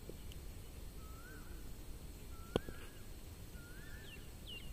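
A bird repeatedly calling a short rising-and-falling whistled phrase, with a few quick falling chirps near the end, over faint outdoor ambience. About two and a half seconds in comes a single sharp crack, a cricket bat striking a hard tennis ball.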